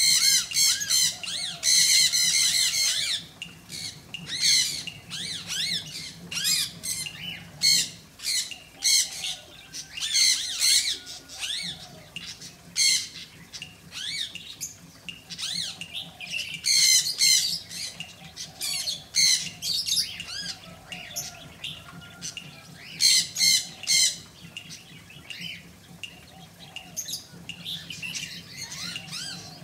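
Pet birds calling: many short, harsh squawks and chirps in rapid clusters, loudest near the start and again around seventeen and twenty-three seconds in.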